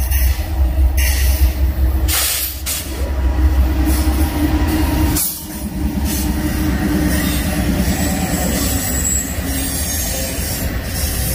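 Freight train passing close by: a heavy, steady rumble of locomotives and rolling cars, with the din of wheels on rail.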